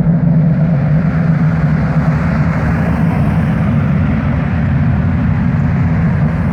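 Loud, steady low rumble, a deep drone with a hiss above it, that holds level without a break.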